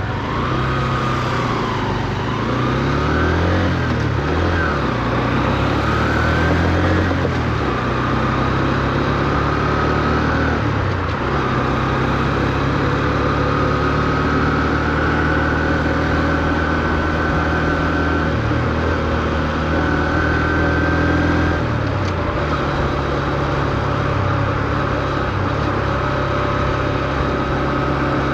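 Honda CB125F's small single-cylinder four-stroke engine under way. Its pitch rises and falls several times with throttle and gear changes in the first several seconds, then settles into a steady cruise, with brief drops about eleven and twenty-one seconds in. It is held at modest revs because the new engine is being run in.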